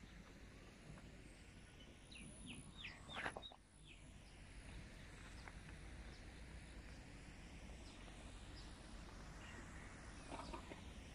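Faint outdoor ambience with a few distant bird calls: a quick run of short chirps about two to three seconds in, and a couple more near the end.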